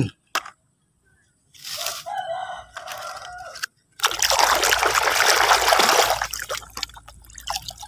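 Water pours and splashes for nearly three seconds, starting about four seconds in, as a muddy plastic toy is rinsed clean. Before that, a rooster crows once for about two seconds.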